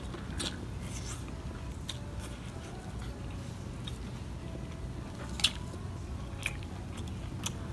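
Close-up eating sounds of hot pot food: chewing and biting, with a few sharp clicks, the loudest about five and a half seconds in.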